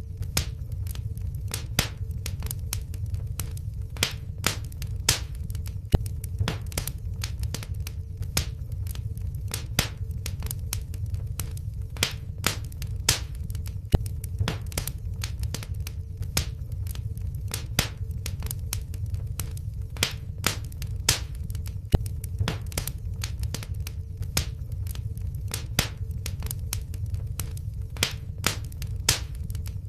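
Wood fire in a fireplace crackling steadily, with a constant low rumble and irregular sharp pops, several a second, a few of them louder. A faint steady hum runs underneath.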